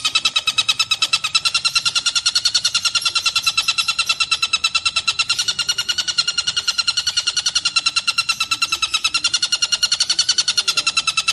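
Tengkek buto calling in a continuous rapid trill of harsh, evenly spaced notes, about nine a second, without a break.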